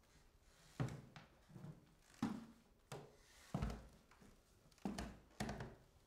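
Slow, evenly spaced footsteps coming down a staircase, one knocking step about every two-thirds of a second.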